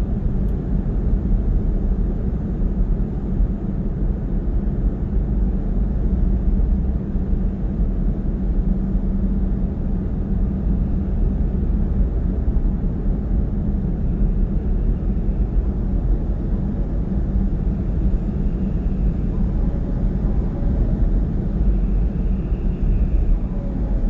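Steady low rumble of a car driving at speed, heard from inside the cabin: tyre and road noise with engine drone, even and unchanging.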